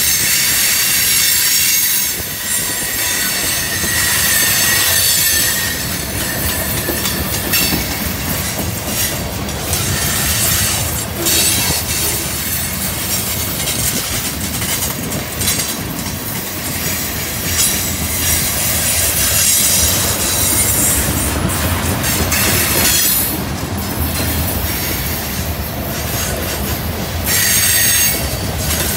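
Freight cars rolling past on a curve: a steady rumble of steel wheels on rail, with high-pitched flange squeal rising and fading several times and scattered wheel clicks. The squeal comes from the wheels grinding against the rail through the curve.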